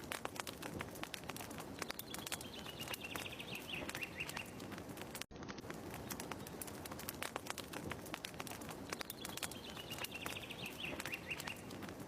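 Looped fireside ambience: a wood fire crackling in irregular clicks, with a bird's descending chirping call a few seconds in. The same few seconds then repeat, with a brief gap where the loop restarts.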